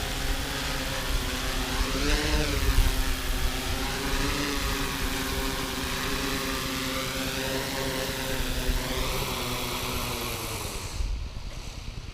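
Yuneec camera quadcopter's motors and propellers whirring, the pitch rising and falling a few times as the throttle changes, then winding down and stopping about eleven seconds in.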